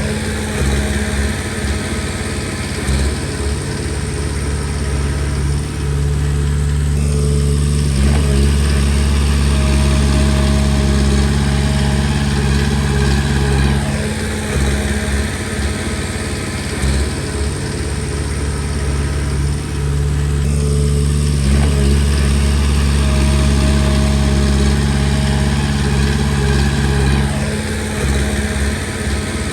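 Komatsu D20P bulldozer's diesel engine running under work. Its note drops and then picks up again a few times as the load and throttle change.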